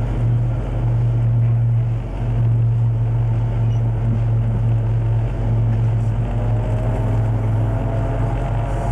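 Diesel locomotive engine running with a steady, loud low drone.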